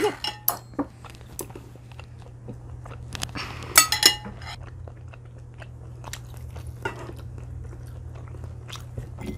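Close-miked chewing and biting into roasted chicken wings: wet chewing with scattered crunchy clicks. The loudest cluster of clicks comes about four seconds in. A steady low electrical hum sits underneath.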